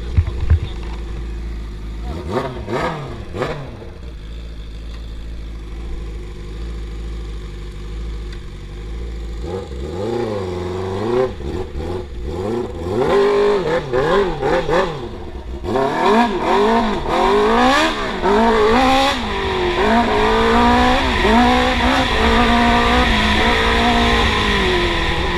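Yamaha R6 inline-four engine in a YFZ450 quad, with a low rumble at first, then revving up and down over and over from about ten seconds in, getting louder in the second half as it is ridden hard.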